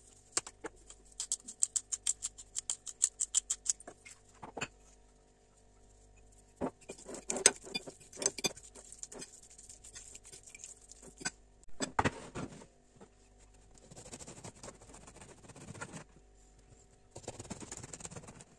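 Kitchen food-preparation sounds: a run of quick taps, about six a second, then scattered knocks and soft scraping of utensils.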